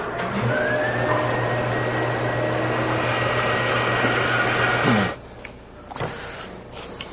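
Power saw switched on: its motor hums and its whine rises as it spins up, then runs steadily for about five seconds and cuts off.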